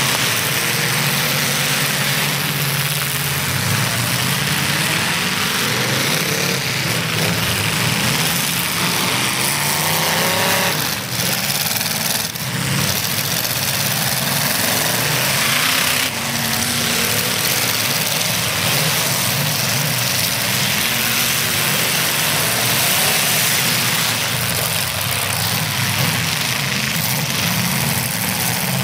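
Several demolition derby cars' engines running and revving hard, their pitch rising and falling over a dense, steady noise, with a few sudden breaks around the middle.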